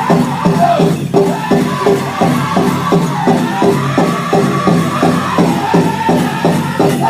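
Powwow drum group playing a fast chicken dance song: a big drum struck about four times a second in an even beat under the singers' voices.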